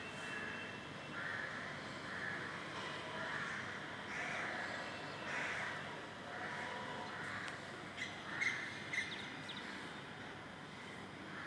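Birds calling repeatedly outdoors, short calls about once a second, with a few sharper, brighter calls about eight seconds in.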